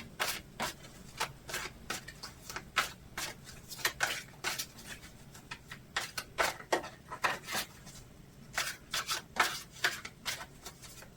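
Tarot deck being shuffled by hand: short card taps and rustles, a few each second and irregular, until a card falls out of the deck.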